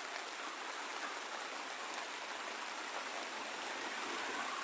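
Steady pouring rain: an even hiss of heavy rainfall with no breaks.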